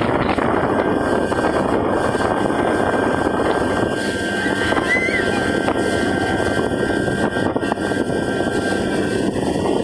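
Speedboat under way, its engine running steadily under a dense, even rush of noise.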